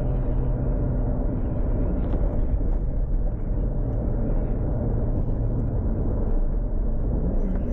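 Toyota Supra MK4's tuned 2JZ straight-six running steadily at low revs, a deep even rumble with no revving.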